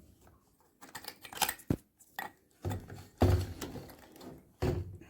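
Irregular metallic clinks, knocks and scrapes of tools and parts being handled while working on a washing machine, the loudest knock about three seconds in.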